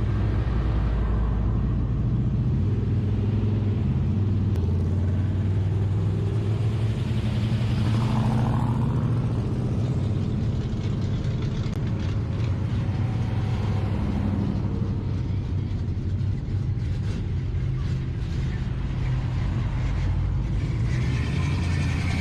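Car engines running at low speed with a steady, deep rumble, and a brief swell about eight seconds in.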